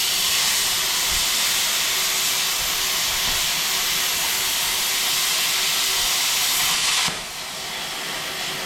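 Plasma cutter cutting steel, a loud steady hiss. The hiss cuts off about seven seconds in, leaving a quieter hiss.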